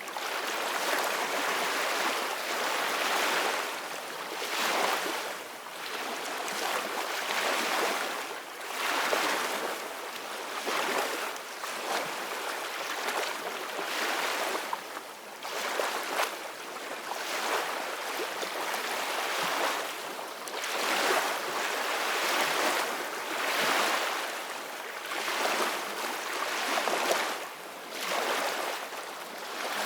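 Ocean waves washing onto a beach: a continuous rush of surf that swells and eases every few seconds.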